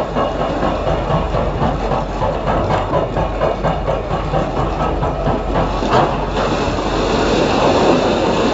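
Excavator working: a steady low engine drone under continuous rapid clattering and rattling.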